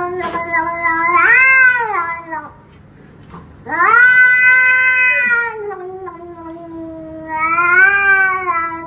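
A domestic cat yowling in two long drawn-out calls, each swelling up in pitch and falling away; the second call rises again near its end.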